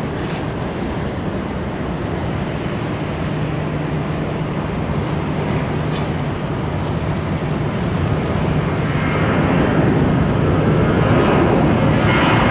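Boeing 737 jet engines running, the rumble and whine growing steadily louder as the airliner draws nearer.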